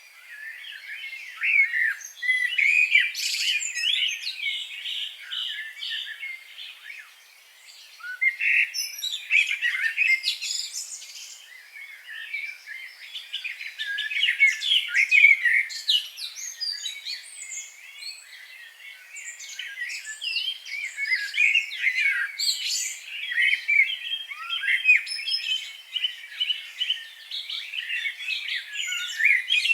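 Several songbirds singing and chirping at once, a dense chorus of quick, high warbling phrases and trills that swells and eases, with a short lull about seven seconds in.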